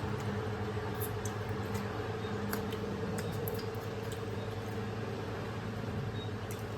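People eating fried chicken: a few faint, brief clicks of chewing and handling the food over a steady low hum.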